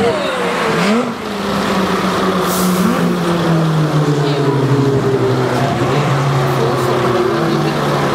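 Motor-vehicle engines running at a race circuit. There are quick revs rising and falling in pitch near the start, then a steady engine drone that drifts slowly lower in pitch.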